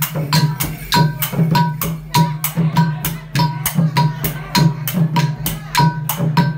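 Khmer chay dam dance music: drums and sharp, briefly ringing hand percussion struck in a quick, steady rhythm of about three to four strokes a second.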